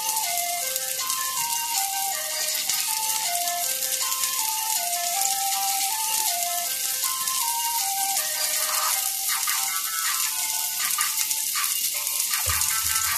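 Background music with a simple plinking melody over the steady sizzle of sliced bitter gourd frying in a wok. A few clicks come in during the second half, and there is a low knock near the end.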